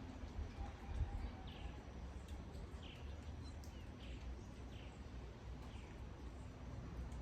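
Rain falling in a steady patter with a low rumble underneath, while a bird calls in short falling chirps roughly once a second.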